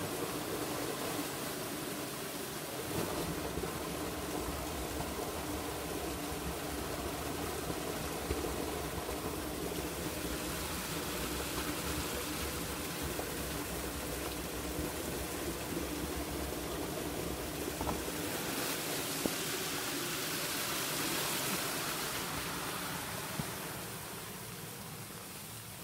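Steady rush of a rain-swollen river's flowing water, with a few faint clicks; it drops a little in level near the end.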